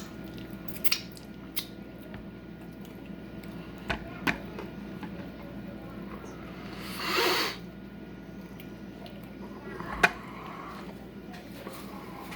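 Quiet eating of chicken wings: scattered short clicks and smacks of mouths and hands, with one breathy rush of air about seven seconds in.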